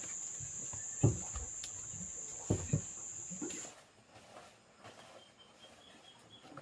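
An insect's steady, high-pitched buzzing drone, which cuts off suddenly a little past halfway, with a few dull low knocks.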